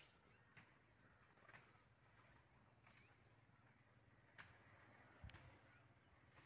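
Faint short bird chirps, roughly one a second, with a soft low thump about five seconds in.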